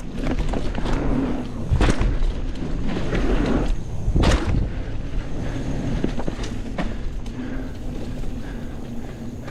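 Mountain bike ridden over rough, rocky singletrack: tyres rumbling and the bike rattling, with two hard knocks, about two seconds in and again a little after four seconds, as it drops over rocks.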